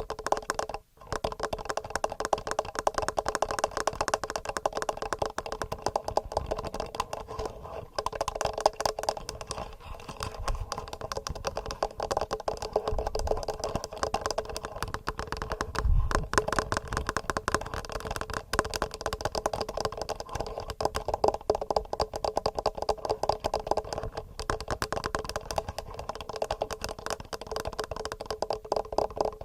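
Fingernails tapping fast and steadily on a TASCAM recorder's microphones, a dense run of clicky taps with a short break about a second in.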